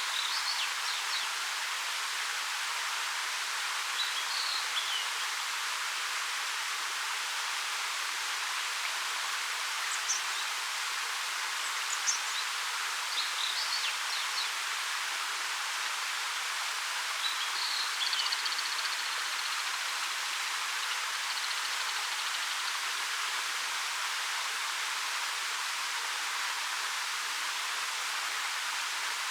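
Steady rush of a 13-metre waterfall falling over rock. Small birds chirp briefly over it several times, with a longer high trill a little past halfway.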